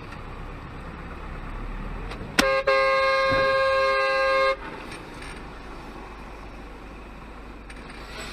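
Car horn sounding: a quick toot, then a held blast of about two seconds, over steady road and engine noise.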